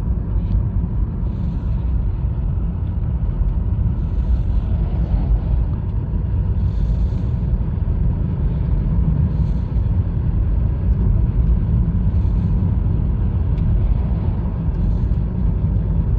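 Steady low rumble of road and tyre noise and engine heard from inside the cabin of a 2020 Honda Fit driving at a steady pace.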